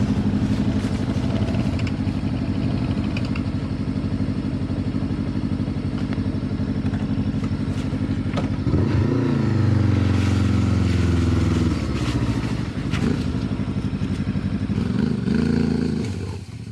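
Adventure motorcycle engine running steadily at low revs, then revving up about nine seconds in, holding higher revs for a few seconds before dropping back, with a second short rev near the end.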